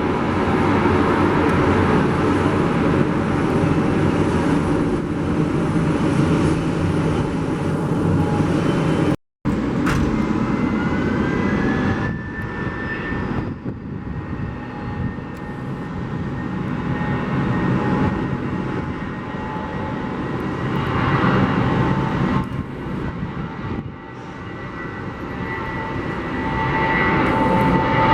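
Jet airliner engines running, loud and rumbling, in two clips joined about nine seconds in. After the cut a high whine rises and then holds steady over the engine noise.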